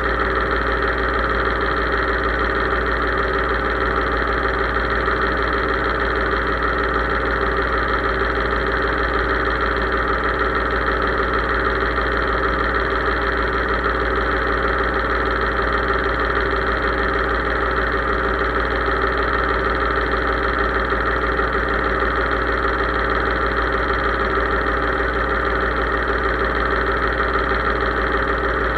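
Case IH 3220 tractor's diesel engine running at a steady, unchanging speed.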